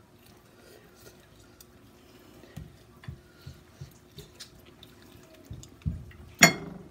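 Soft, irregular wet chewing and lip-smacking of someone eating a sauced fried chicken leg, with one sudden loud sharp sound about six and a half seconds in.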